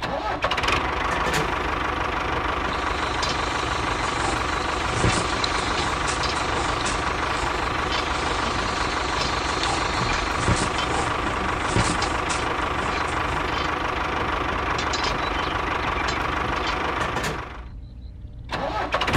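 Small electric motor and gear drive of a miniature model tractor running steadily, driving the screw-lift that tips its trolley bed. The sound drops away for a moment near the end, then starts again.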